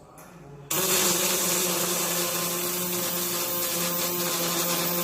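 Welding on a vehicle chassis frame: a loud, steady hissing crackle that starts abruptly about 0.7 seconds in and holds at an even level with a steady hum underneath.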